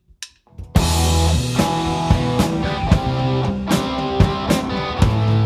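A few sharp clicks, then a live rock band comes in together under a second in: drum kit, bass and guitar playing the instrumental intro of a song, with regular drum hits and deep bass notes.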